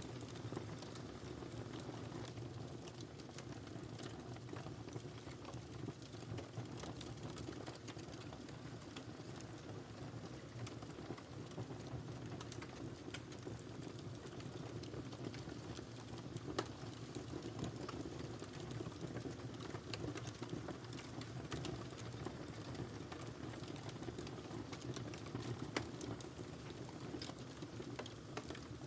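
Wood fire in a fireplace crackling steadily with many small pops, and a couple of sharper pops, one a little past the middle and one near the end.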